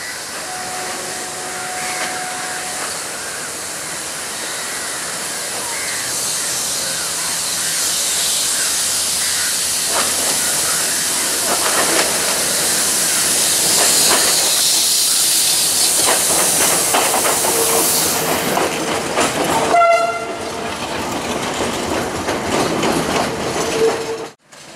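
Diesel trains moving through a railway yard: wheels clatter over the points under a steady rushing hiss that grows louder, and a short horn blast sounds about twenty seconds in. The sound cuts off suddenly just before the end.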